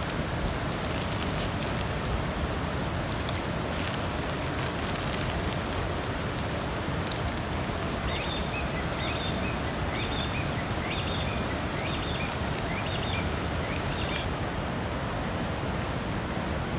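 Campfire crackling with scattered sharp snaps over a steady rushing background noise. Partway through, a bird calls a quick run of six or seven short notes, about two a second.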